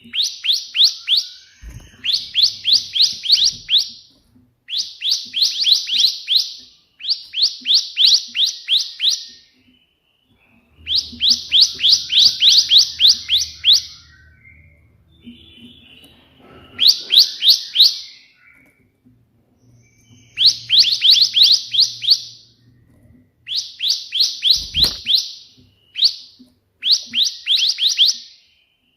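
Bar-winged prinia (ciblek) in full song: bursts of rapid, evenly repeated high chip notes in the fast 'tembakan' style, about ten phrases of one to three seconds each, separated by short pauses.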